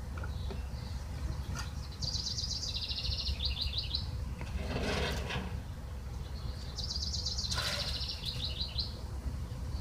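A songbird singing twice, each a high, rapid trilled phrase of about two seconds ending in a few quick falling notes, over a steady low background rumble. Two brief noisy sounds come near the middle and about three-quarters of the way through.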